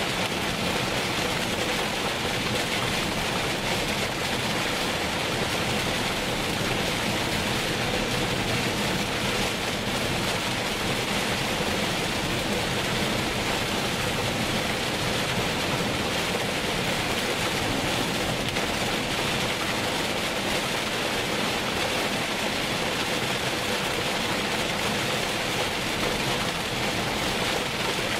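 Heavy rain falling steadily on a car driving along a wet road: an even, unbroken hiss.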